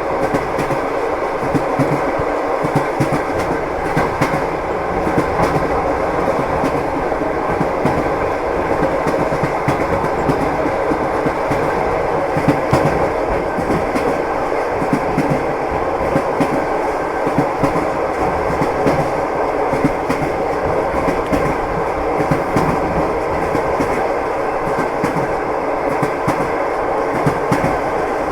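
Train wheels clattering on the rails: a steady running rumble of a railway carriage with frequent clicks throughout.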